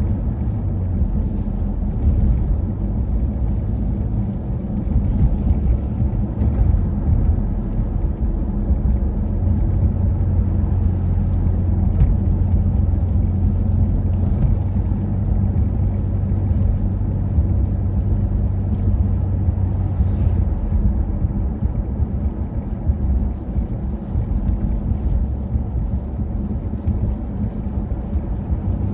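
Wind buffeting the microphone in a snowstorm: a loud, steady low rumble, with a deeper steady hum from about nine seconds in until about twenty seconds.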